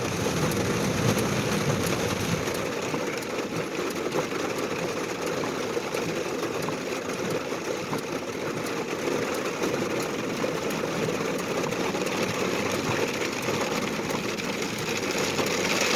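Steady car noise from inside the cabin while driving on a rain-wet road: engine hum and tyre noise with the hiss of water under the wheels.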